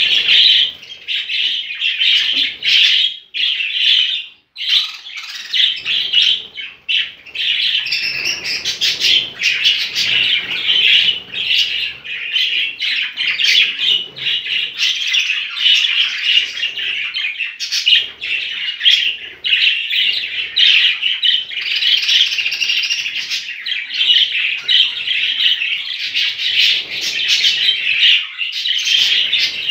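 Many budgerigars chattering and chirping at once in a steady, dense chorus, with a brief lull about four seconds in.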